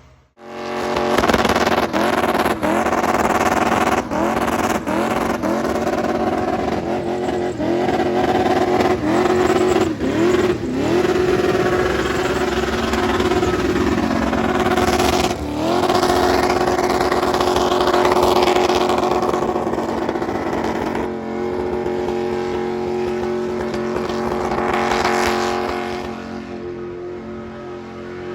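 A 307 V8 breathing through 180-degree headers, revving hard. Over the first ten seconds or so the revs repeatedly drop briefly and climb back, there is a deeper dip about halfway, and then the revs are held high and steady.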